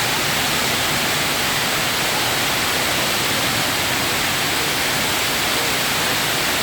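Steady rushing of a large indoor waterfall about 40 feet high, an even wash of falling water that holds at one level throughout.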